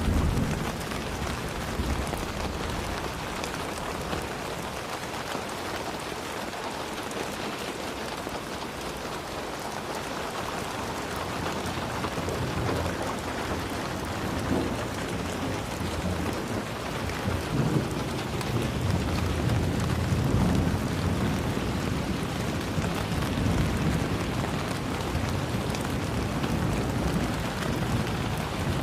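Steady heavy rain falling, an even hiss, with low rumbles of thunder that swell about two-thirds of the way through.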